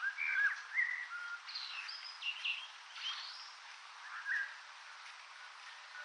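Small birds chirping: a run of short whistled notes, several bending up and down in pitch, through the first four seconds or so, over a steady even hiss.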